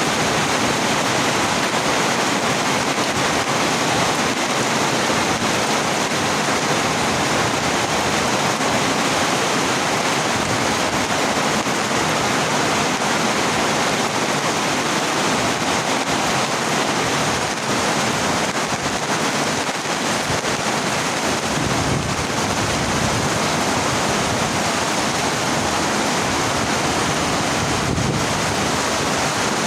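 Heavy rain falling steadily, a loud even hiss with no let-up.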